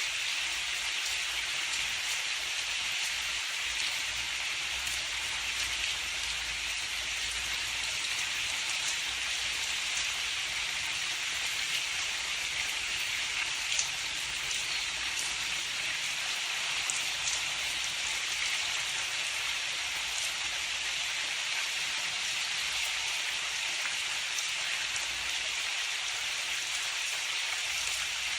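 Steady rain falling, an even hiss with a few distinct drop ticks scattered through it; no thunder.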